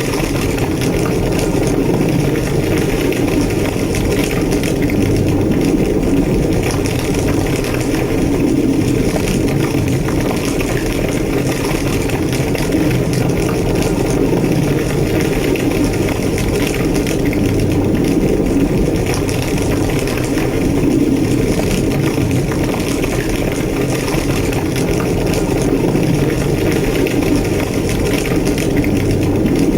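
Large structure fire roaring in a steady low rumble, with fine crackling running through it.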